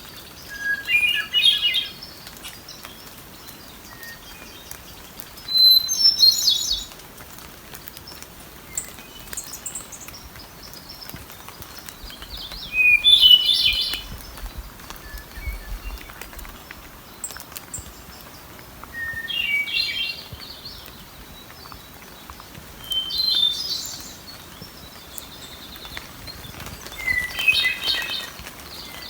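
Wood thrush singing: six separate short song phrases, each about a second long, with pauses of several seconds between them.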